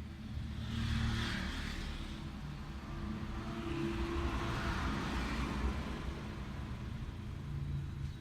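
Road traffic passing, with a steady low rumble and two vehicles swelling up and fading away, one about a second in and a longer one a few seconds later.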